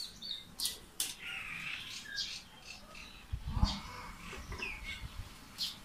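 Scattered short bird chirps, with light rustling and clicks and a couple of dull knocks about three and a half seconds in as onion-peel scraps and a strainer are handled on a tabletop.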